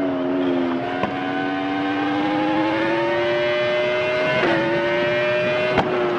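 Motorcycle engine running at high revs, its pitch climbing slowly, then dropping briefly about four and a half seconds in before holding steady.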